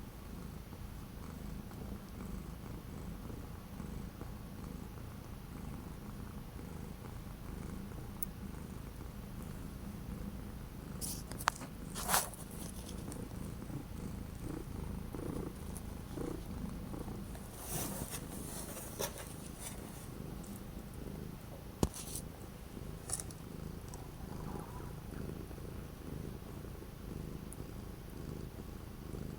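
Domestic cat purring steadily close to the microphone, with a few brief clicks and rustles partway through.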